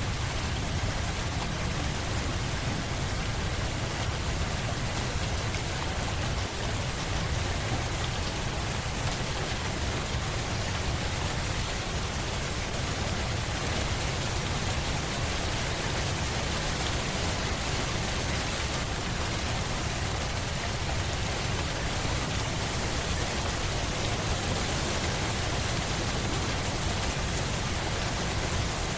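Steady rain falling on a surface, an even hiss with a low rumbling undertone.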